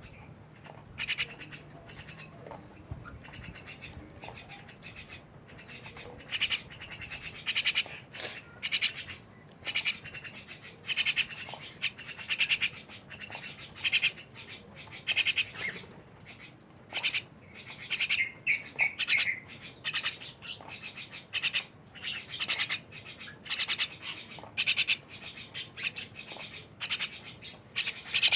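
A jalak (Indonesian starling or myna) calling over and over in short, rasping bursts. The calls are sparse at first and come about once a second or faster from several seconds in.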